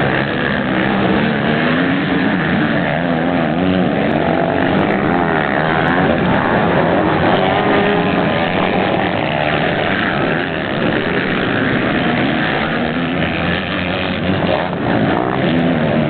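Several motocross bikes racing, their engines revving up and down and overlapping one another.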